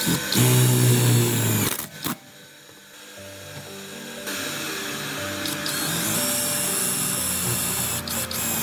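A small electric power tool runs for about a second and a half, then cuts off, over background music.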